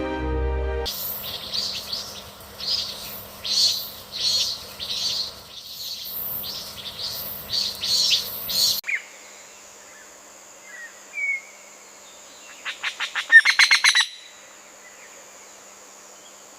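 Birds calling: a string of repeated high calls about every 0.7 s for some eight seconds. It changes suddenly to a quieter bed with a steady high whine, a couple of faint chirps and a quick run of rapid notes near the end. Background music fades out about a second in.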